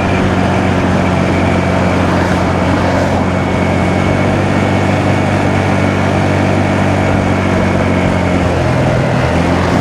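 Honda Navi's small single-cylinder engine running steadily while riding, with wind and road rush over it. Its note shifts briefly near the end, then settles again.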